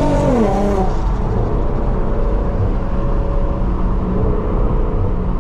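Car engine dropping sharply in pitch at an upshift in the first second, then pulling along at a steady lower drone over heavy road rumble.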